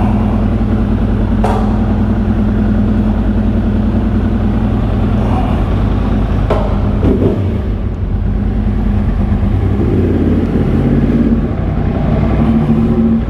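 2013 Yamaha R1's crossplane inline-four engine idling steadily, with a few light clicks, then pulling away at low revs about ten seconds in.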